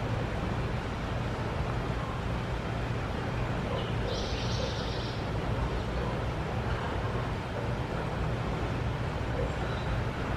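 Steady outdoor background rumble and hiss. About four seconds in comes one brief, high buzzy call lasting about a second, likely a bird's.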